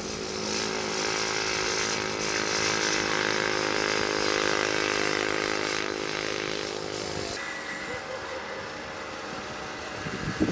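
Vintage racing motorcycle engines running at speed, growing louder as they pass and then dropping away sharply about seven seconds in.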